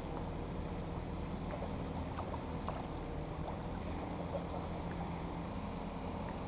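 Steady low noise of a fishing kayak on the water, with a few faint small clicks.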